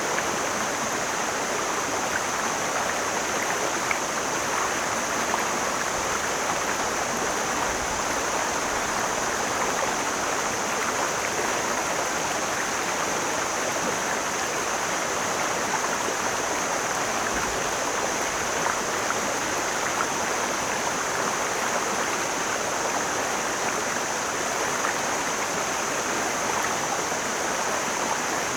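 Mountain stream flowing, a steady, unbroken rush of running water, with a constant high-pitched hiss layered over it.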